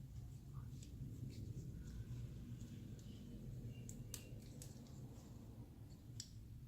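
Faint clicks and light scrapes of small parts being handled, a mass air flow sensor and its gasket, over a low steady background rumble.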